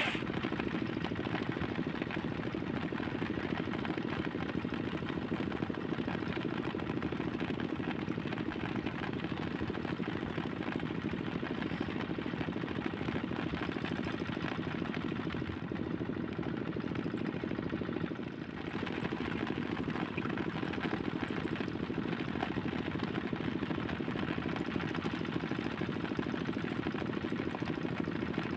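Small motorcycle engine running steadily, its level dipping briefly about 18 seconds in.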